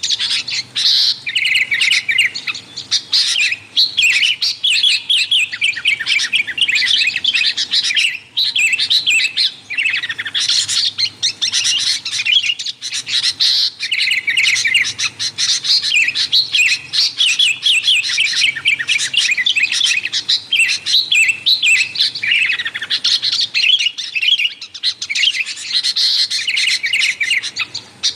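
Sooty-headed bulbuls (kutilang) calling busily: fast runs of bright, repeated chirping notes with hardly a pause.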